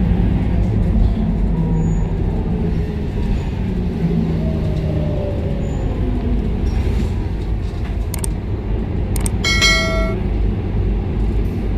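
Interior of a Scania K230UB city bus, its five-cylinder diesel engine running with a steady rumble whose pitch drops about halfway through as the bus slows. Near the end a couple of clicks come, then a short electronic chime of about half a second.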